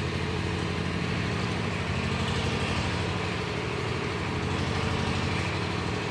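An engine or motor running steadily at an even pitch.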